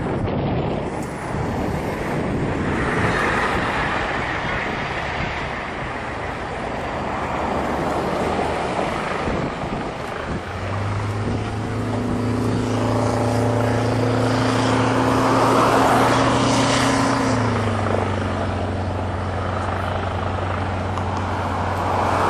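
Aircraft engine noise over a rough, windy rumble. About ten seconds in, a steady low engine drone comes up and drops slightly in pitch a few seconds later.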